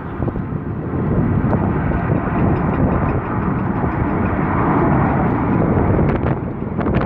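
British Airways jet airliner's engines running at takeoff power, a loud steady noise that swells about a second in and holds. Wind buffets the microphone near the end.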